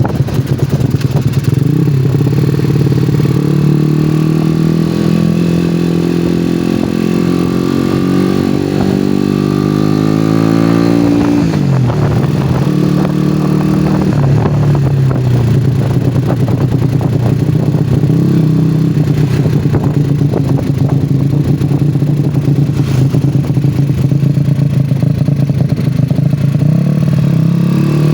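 Yamaha Jupiter Z (5TP) single-cylinder four-stroke motorcycle with a loud aftermarket exhaust, pulling up through the revs for several seconds. The pitch drops sharply about eleven seconds in, then the engine runs fairly steady.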